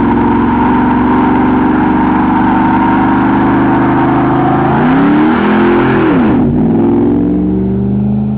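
Dodge truck doing a burnout: the engine is held at high revs while the tires spin and squeal, then the revs swing down and up. The tire noise cuts off suddenly about six and a half seconds in, and the engine revs on lower before easing off.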